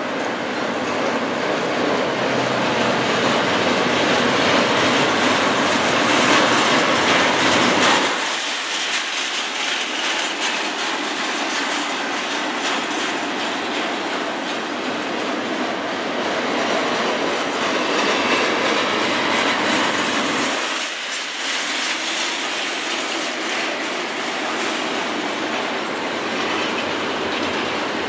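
Double-stack intermodal freight train's well cars rolling past close by, a steady rush of steel wheels on rail with fine rhythmic clicking. The deep rumble underneath drops away abruptly about eight seconds in, and again around twenty-one seconds.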